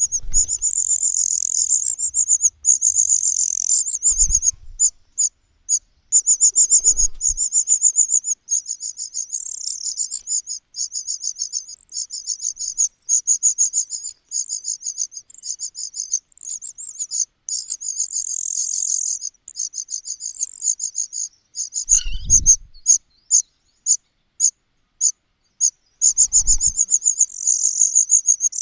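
Nestling birds begging at the nest: a loud, rapid, high-pitched chirping that runs almost without pause and breaks off briefly now and then. A few short low thumps come in between.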